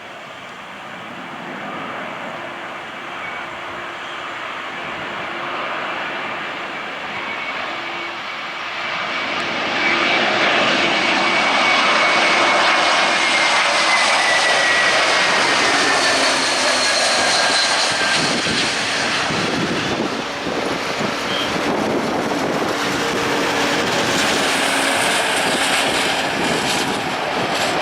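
Engines of an Airbus A321-231, twin IAE V2500 turbofans, as the airliner passes. The jet noise grows louder over about ten seconds and then stays loud, with a high whine that falls slowly in pitch as it goes by.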